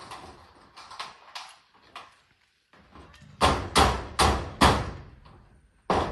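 Hammer driving nails into corrugated zinc roofing sheets: a few lighter knocks, then four hard strikes in quick succession about three and a half seconds in, and one more near the end.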